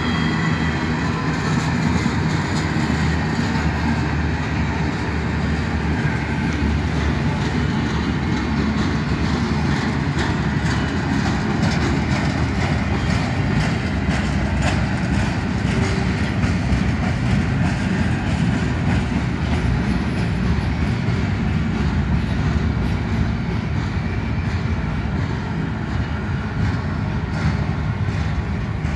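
Freight train of empty intermodal well cars rolling past: a steady rumble of steel wheels on rail with a running clatter of wheel clicks.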